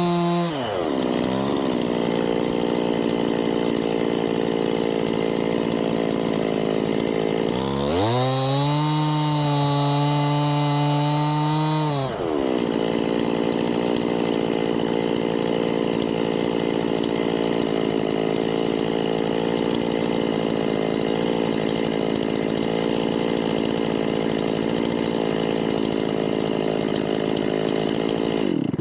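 Two-stroke chainsaw coming off full throttle to idle in the first second, revved up again for about four seconds a third of the way in, then dropping back to a steady idle.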